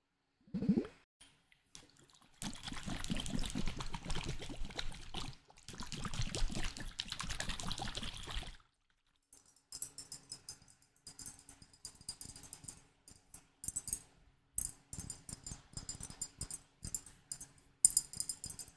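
Close-up ASMR handling of a small object: two stretches of continuous swishing, then a long run of quick crackling clicks.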